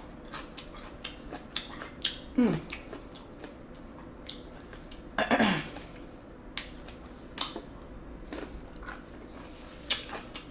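Close-miked eating of spicy noodles and enoki mushrooms: wet chewing clicks throughout, with two louder slurps about two and a half and five seconds in.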